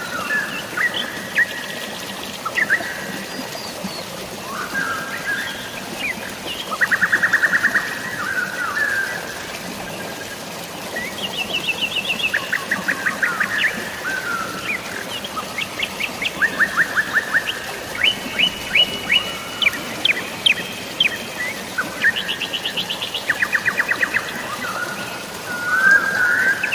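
Several birds chirping and singing, with rapid trills of evenly spaced notes recurring throughout, over a steady hiss of running water and rain.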